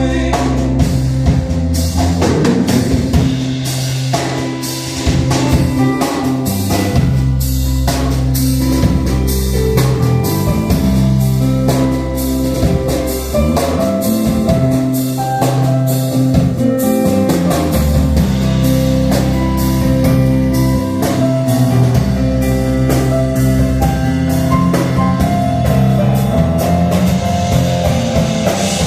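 Live band playing an instrumental passage of a rock song, with drum kit and guitar over sustained low notes and a steady beat.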